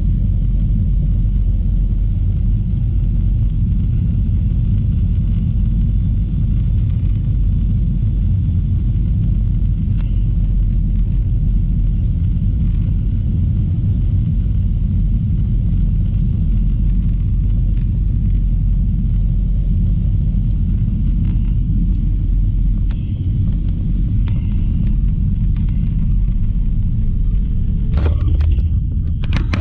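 Steady low rumble of an Airbus A321 passenger cabin, engine and airflow noise heard from a seat. There are a few brief knocks or rustles near the end.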